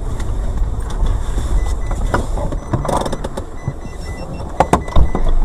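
Car running on the road with steady low engine and road rumble, broken by a few sharp knocks near the end.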